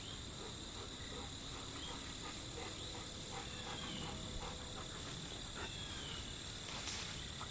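Steady chorus of insects in the woods, a continuous high-pitched trill, with faint scattered rustles beneath it.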